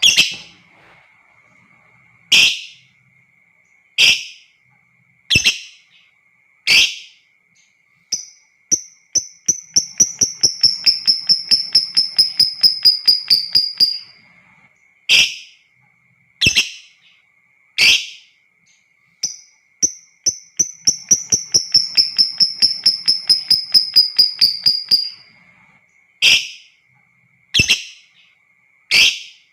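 Lovebirds calling: sharp single shrieks about every second and a half, broken by two long, rapid chattering trills (the 'ngekek' song) of about six seconds each, one about eight seconds in and one past the middle. A thin steady high whine runs underneath.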